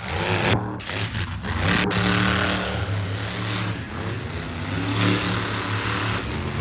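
Monster truck engine running and revving, its pitch rising and falling.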